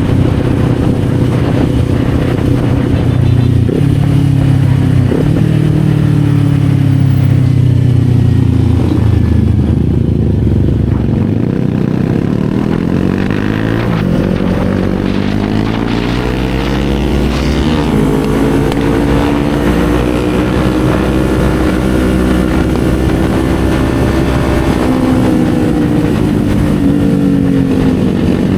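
Kawasaki Z400's parallel-twin engine running under way, with wind rush. The revs fall for several seconds, then climb steadily as it accelerates, hold, and ease off again near the end.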